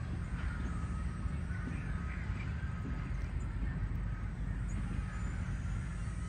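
Train passenger coaches rolling past, a steady low rumble of wheels on the rails.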